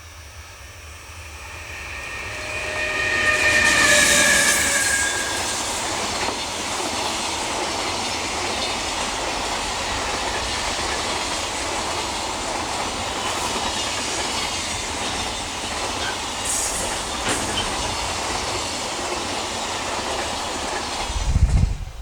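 EH500 electric locomotive sounding its horn for a couple of seconds as the freight train approaches, followed by the steady rolling wheel-and-rail noise of a long train of container wagons passing. Near the end the train noise gives way to wind buffeting the microphone.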